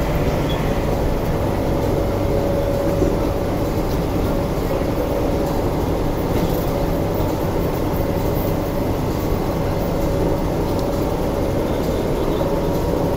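A stationary MTR South Island Line S-train (Alstom) standing at the platform with its doors open, giving a loud, steady hum with a thin steady tone over it.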